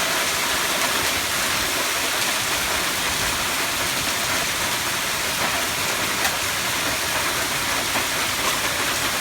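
Heavy hail falling and striking hard surfaces in a dense, steady hiss, with a few sharper single impacts standing out.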